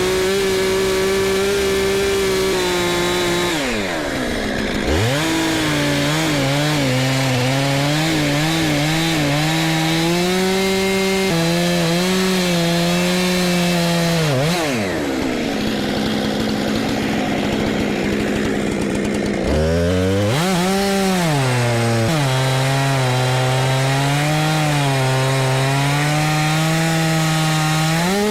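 Gas chainsaw cutting into a red oak log to dig out embedded nails. The engine runs at high revs, drops off sharply and revs back up about 4 seconds in, again about 15 seconds in, and once more about 20 seconds in.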